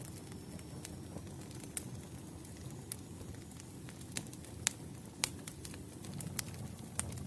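Wood campfire burning: a steady low rumble of flames with scattered sharp crackles and pops, the loudest of them a little past the middle.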